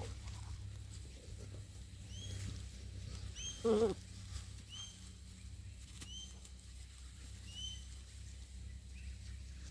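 Young puppies squeaking: about six short, high chirps roughly a second apart, and one louder, lower yelp just before the midpoint, over a steady low hum.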